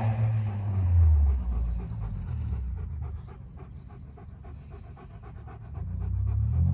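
Dog panting rapidly in an even rhythm, several breaths a second. A low engine rumble fades after about a second and builds again near the end.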